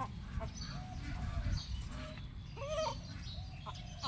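A few short, high chirping animal calls, the clearest about two-thirds of the way through, over a steady low rumble.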